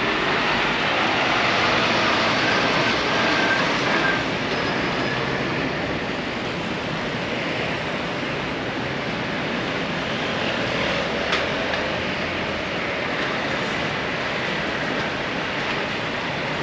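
Steady city street ambience: a continuous rumble and hiss of passing traffic, with a faint brief high squeal a few seconds in and a single click about eleven seconds in.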